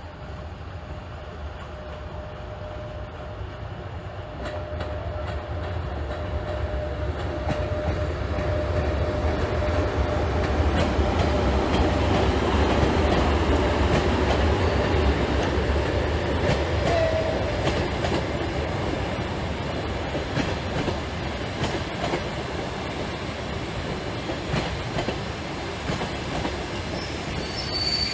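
A train passing, its wheels clattering over the rail joints. The sound builds for about twelve seconds, then eases off slightly, with a brief high squeal near the end.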